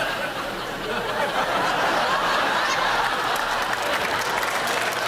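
Studio audience laughing and clapping, a dense crowd noise that builds toward full applause.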